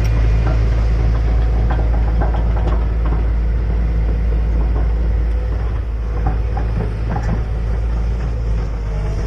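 Excavator's diesel engine running steadily, with scattered light metallic knocks and clicks over it.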